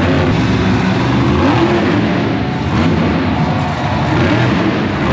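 Loud engine revving, its pitch rising and falling repeatedly.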